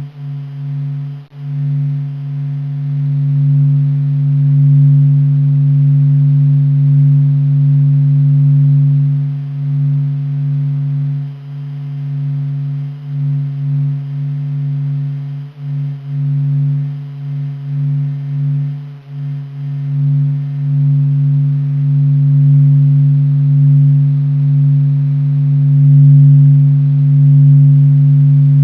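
NASA's 'sound of the sun' sonification: a steady low drone with a main band and fainter overtones above it. It swells and dips slowly in loudness, and wavers more between about 11 and 20 seconds.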